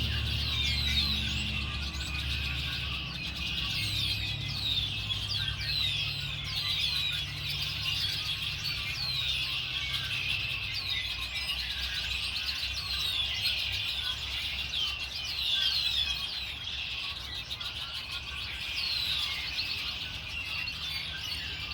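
Many small birds chirping at once at a backyard feeder: a dense, continuous chorus of quick, overlapping descending chirps.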